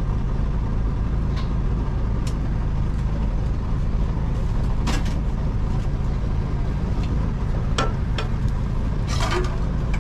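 Steady low mechanical hum of a food truck's running equipment, with scattered clinks and clatters of kitchen utensils, the largest about five seconds in and again near the end.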